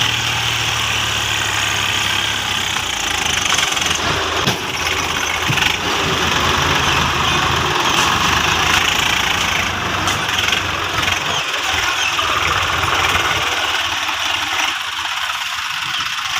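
Swaraj tractor diesel engine running steadily, with a broad hiss over it; the low engine tone thins out near the end.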